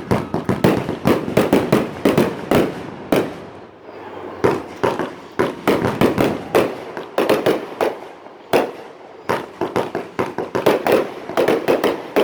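Fireworks display: a rapid, irregular barrage of shell bursts and cracks, several bangs a second, with short lulls about four and eight seconds in.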